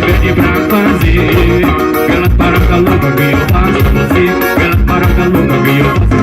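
Band playing upbeat Brazilian dance music with a steady, regular drum beat.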